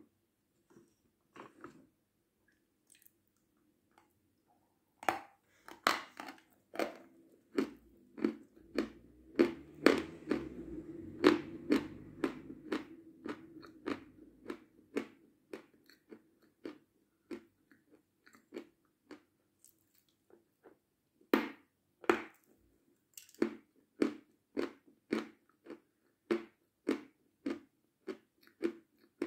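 A person biting into and chewing a crunchy white confection. After a few quiet seconds, sharp crunches start about five seconds in and crowd together for a while, then settle into steady chewing crunches at about two a second toward the end.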